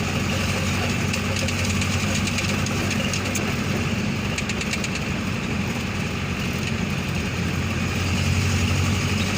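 Vehicle engine running steadily while driving along the road, a constant low drone with light rattles.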